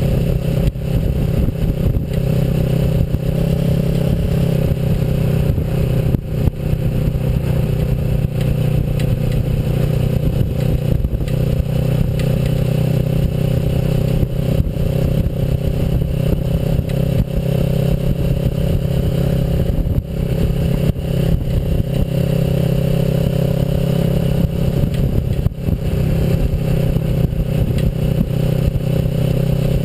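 Kawasaki Versys motorcycle engine running at a steady speed under way, with scattered knocks and rattles from riding over a dirt road.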